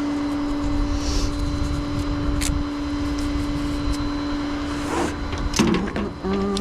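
Tow truck running with a steady whine over a low engine rumble, with a sharp click about two and a half seconds in and a few knocks near the end.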